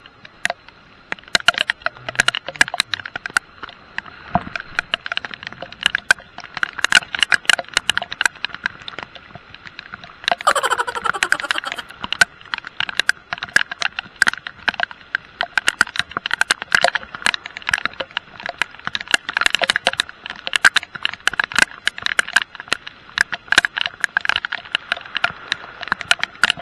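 Heavy rain striking the camera: a dense, irregular patter of sharp drop hits. About ten seconds in, a brief sound falls in pitch.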